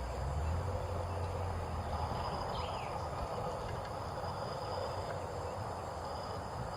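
Steady outdoor background noise, a hiss-like haze with a low hum in the first couple of seconds, and one faint short chirp about two and a half seconds in.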